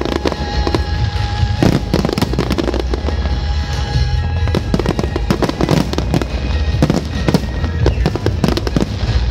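Aerial firework shells bursting in quick, irregular succession, many sharp bangs and pops, over loud music.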